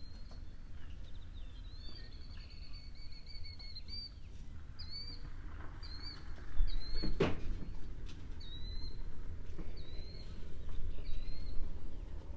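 A small bird chirping repeatedly, a short hooked chirp about once a second, over a steady low wind rumble. A single sharp thump about seven seconds in is the loudest sound.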